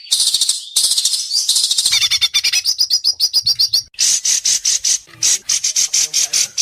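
White-rumped shama singing a loud, rapid, chattering song: a fast run of short clipped notes through the middle, then harsh, buzzy repeated phrases from about four seconds in.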